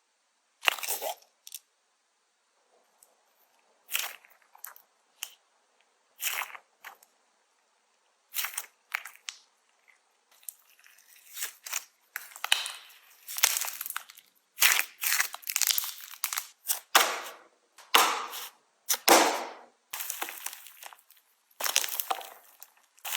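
Slime being pressed and squeezed, giving short crackling, crunchy bursts. A few separate bursts at first, then they come almost continuously through the second half.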